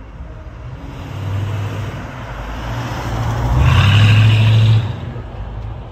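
Classic car driving past with its engine running. The engine grows louder to a peak about four seconds in as the car passes, then drops off quickly.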